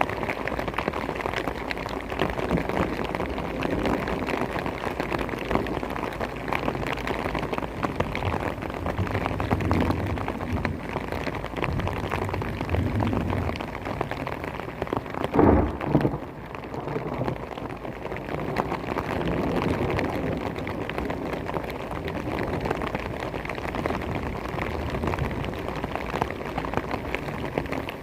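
Heavy thunderstorm rain pouring steadily, with a brief louder burst about halfway through.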